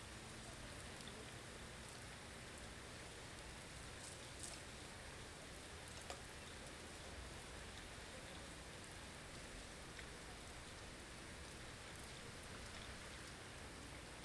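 Steady blizzard ambience: a constant soft hiss of wind-driven snow, with a couple of faint ticks.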